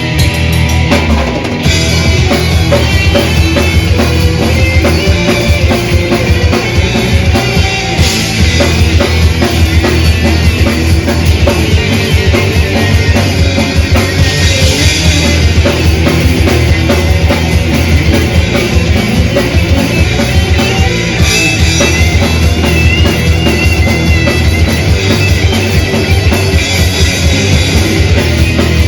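Death/thrash metal band playing live: distorted electric guitars, bass and drums in an instrumental passage, with a fast, dense drum beat coming in about a second and a half in.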